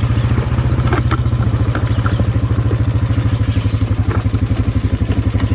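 ATV engine running steadily at low trail speed, an even low chug, with a few faint clicks and rattles over it.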